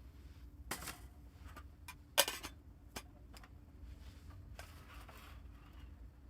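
Cooking gear being handled to cook rice: a few sharp clicks and knocks, the loudest about two seconds in, then a brief rustle.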